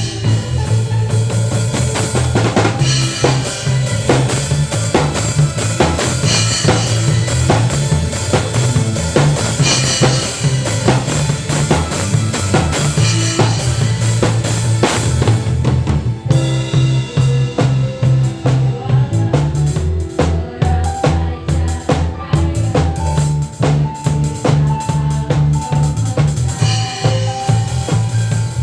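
A band playing an instrumental passage on drum kit, bass and melodic instruments at a soundcheck. About sixteen seconds in the cymbals drop away and a single melody line comes to the front over the drums and bass.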